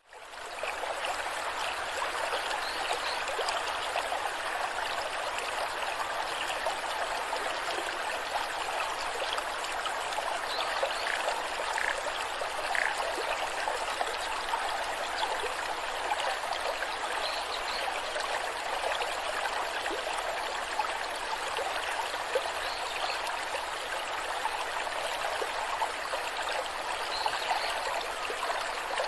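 Water rushing and splashing down a waterfall: a steady, even rush that fades in over the first second.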